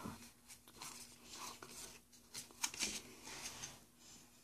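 Faint rustling and light clicks of Pokémon trading cards being handled and flipped through.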